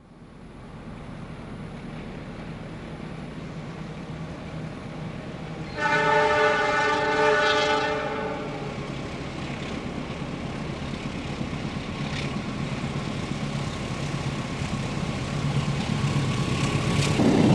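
Diesel locomotive hauling a freight train, its engine drone growing louder as it approaches. About six seconds in it sounds its horn, a chord of several tones lasting about two seconds.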